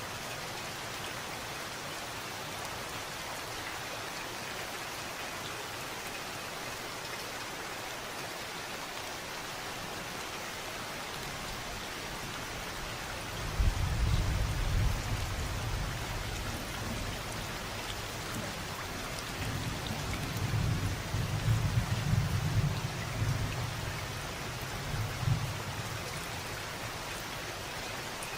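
Steady rain falling in an even hiss. About halfway through, low rolling thunder starts to rumble, fades, then rumbles again for several seconds near the end.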